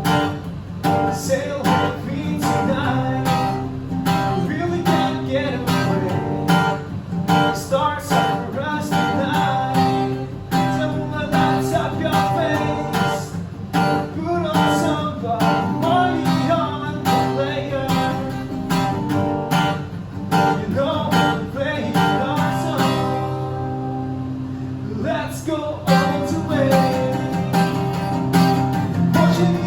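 Acoustic guitar strummed in a steady rhythm, thinning out briefly about three-quarters of the way through before coming back fuller.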